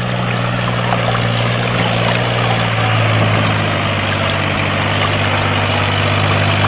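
Water pouring and splashing steadily from a small DIY electric water pump, over a steady low hum.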